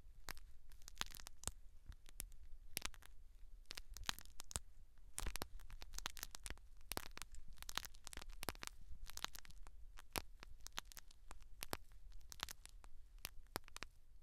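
Close-miked scratching and crackling of scalp and hair being worked on, a dense run of fine, irregular clicks.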